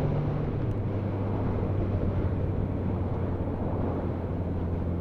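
Motorcycle engine running while riding along, with wind and road noise. The engine note steps down in pitch about half a second in, then holds steady.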